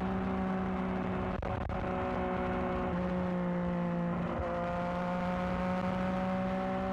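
A Yamaha XSR900's inline-three engine running through a new aftermarket exhaust while riding at a steady pace. Its note dips about three seconds in and climbs back a second or so later.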